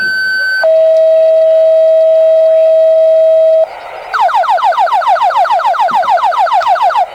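Fire engine's electronic siren sounding while responding: a steady high tone drops to a lower steady tone about half a second in and holds for about three seconds, then after a brief break it switches to a rapid run of falling sweeps, about seven a second.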